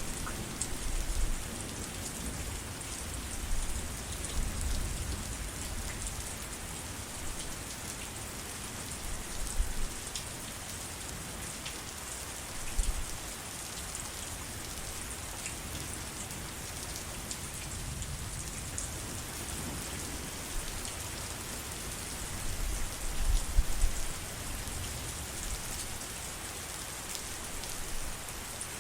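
Steady rain, an even hiss with many close drops ticking, and low rumbles swelling now and then, the strongest about 23 seconds in.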